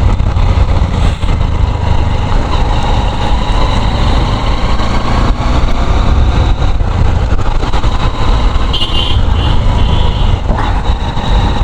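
Motorcycle running at road speed, its engine under a steady rush of wind on the rider's microphone.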